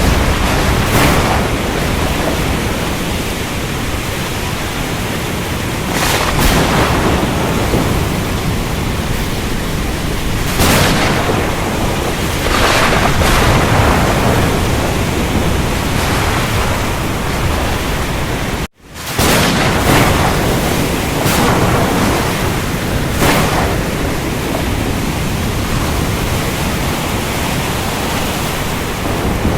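Storm at sea: a dense, steady wash of wind, rain and surf, with a wave surging up every few seconds. The sound cuts out for an instant about two-thirds of the way through, then returns.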